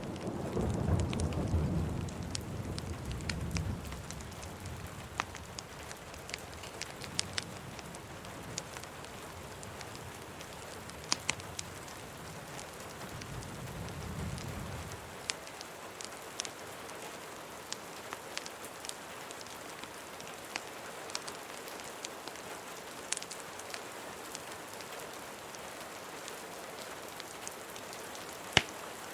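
Steady rain falling, with low rumbles of thunder at the start and again about halfway through, and scattered sharp crackles and pops of a wood fire.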